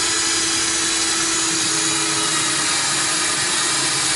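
Electric power tool cutting into wood under load: a steady motor whine over a continuous loud rasping noise.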